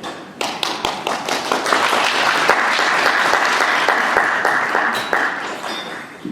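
Audience applauding: scattered claps begin just after the start, swell into steady applause and thin out near the end.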